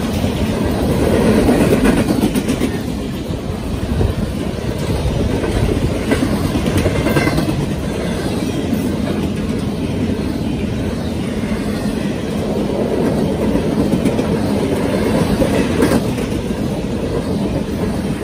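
Empty double-stack intermodal well cars of a freight train rolling past: a steady rumble of steel wheels on rail with clattering and occasional sharp clicks.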